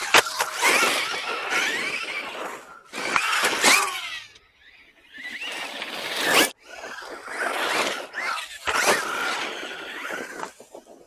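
Traxxas Mini XRT radio-controlled truck, its electric motor whining up in repeated bursts of throttle with tyre and dirt scrabble, about five bursts separated by short pauses.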